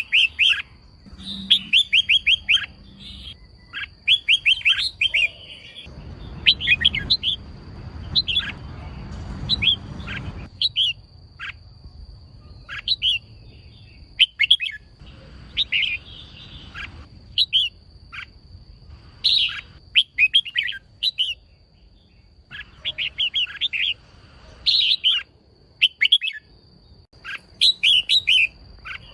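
Female red-whiskered bulbul calling: short clusters of quick, high chirping notes repeated every second or two, the kind of call used to rouse male bulbuls to sing. A faint steady high tone runs underneath, and a hiss sets in about six seconds in and stops about ten seconds in.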